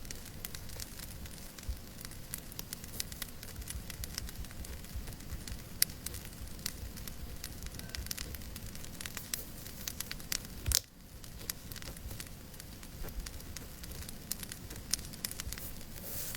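Wood fire crackling in a fireplace: a dense scatter of sharp pops and snaps over a steady low hiss, with one louder pop about six seconds in.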